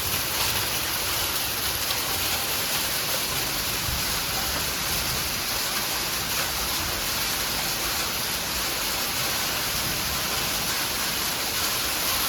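Heavy sleet falling, ice pellets hitting the ground and surfaces in a steady, dense hiss.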